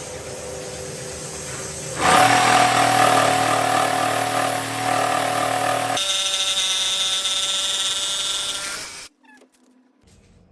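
Power tools running on walnut in three quick cuts, each a steady whine at a different pitch, the second the loudest. All of it stops abruptly about nine seconds in.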